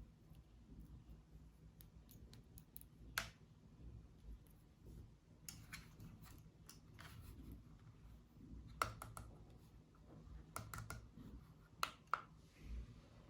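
Sparse, irregular light clicks and taps of small objects being handled, over quiet room tone.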